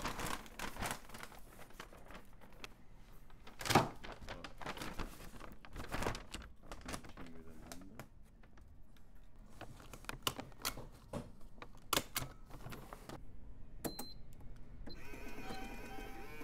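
Irregular clicks, taps and knocks of hand work in a shoe repair shop, with one sharp, louder knock about four seconds in.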